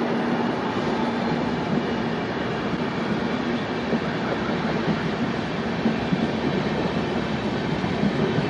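Express passenger coaches rolling past on the track: a steady wheel-on-rail rumble, with occasional clicks as the wheels cross rail joints.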